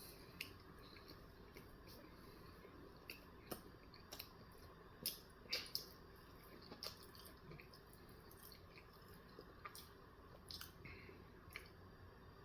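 Faint, wet chewing and lip-smacking clicks, scattered irregularly, of a person eating a steak, egg and cheese bagel sandwich.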